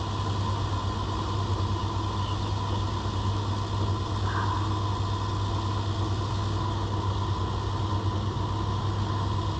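Motorcycle engine running steadily, an even low drone with no change in pitch.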